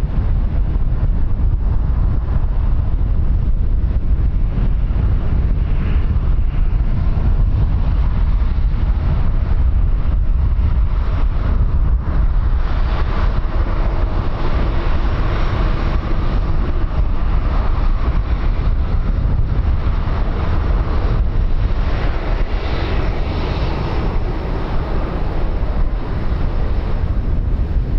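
Heavy wind rumble on the microphone, with a broad roar that swells in the middle and fades again near the end.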